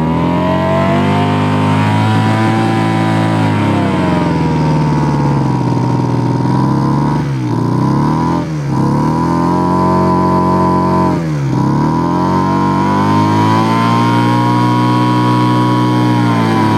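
Small gas engine of a blower running at high speed, its pitch sagging and then dipping sharply three times before recovering, as Liquid Wrench penetrating oil is fed into the running engine.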